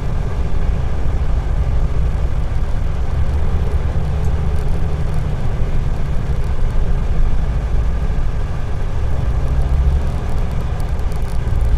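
Dongfeng truck's diesel engine and road noise heard from inside the cab, a steady low rumble while coasting off the throttle with the engine-brake lever in its second position; the engine brake is not engaging, as the exhaust flap is not closing.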